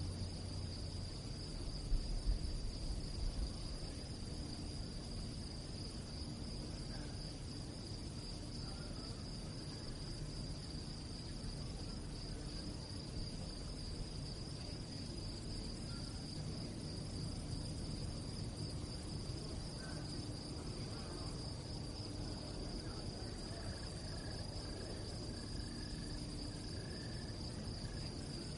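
Crickets chirping in a continuous, steady high-pitched trill over a low background rumble, with a few soft low thumps about two seconds in.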